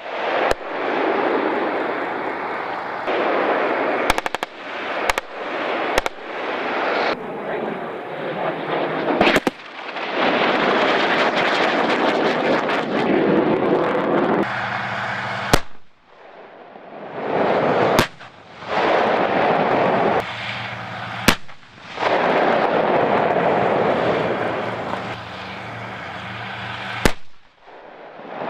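Heavy gunfire on a live-fire range: long stretches of rapid automatic fire with single sharp shots standing out, and a steady low hum beneath from about halfway. The sound breaks off abruptly several times, near the middle and again shortly before the end.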